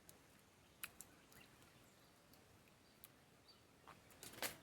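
Near silence: faint outdoor background hiss with a few brief faint clicks, about a second in and again about three seconds in.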